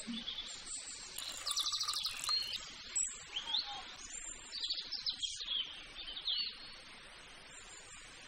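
Birds chirping: a quick trill of rapid repeated notes about a second and a half in, then several short sweeping calls, over a faint background hiss.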